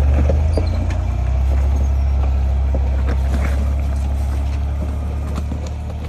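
An off-road vehicle's engine running steadily at low speed, a deep drone, with scattered clicks and knocks over it.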